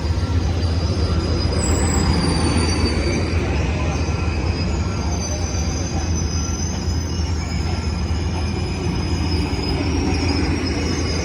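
Amtrak Coast Starlight passenger cars rolling slowly past with a steady low rumble. Thin, wavering high-pitched wheel squeals ride over it throughout.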